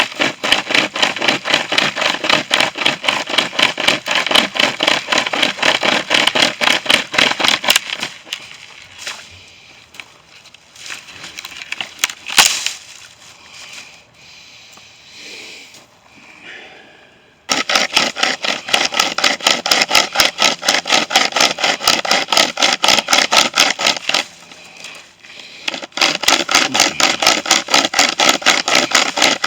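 Chainmate pocket chainsaw, a hand-pulled chain saw with cloth handles, sawing through a tree limb with rapid back-and-forth strokes. The sawing stops for several seconds around the middle, where there is one sharp crack, then resumes, with a short break near the end.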